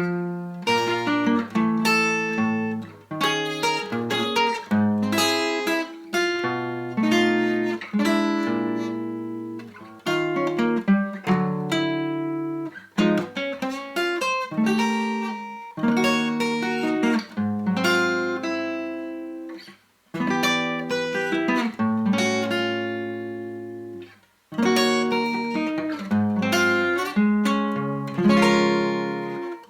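Background music: acoustic guitar being picked and strummed, chord after chord, with two brief breaks in the second half.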